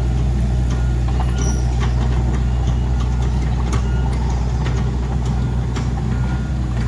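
Dump truck's diesel engine running steadily, a constant low drone.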